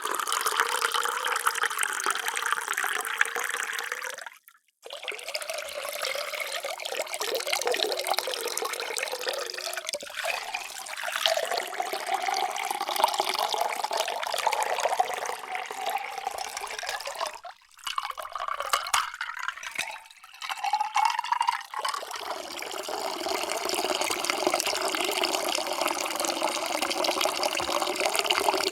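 Water poured in a stream into a container, as several separate pours broken by brief gaps. The pitch of each pour climbs as the vessel fills.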